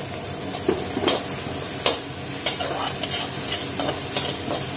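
Chopped onion and carrot sizzling in hot oil in a steel kadhai, stirred with a perforated steel skimmer ladle that scrapes and clicks against the pan several times.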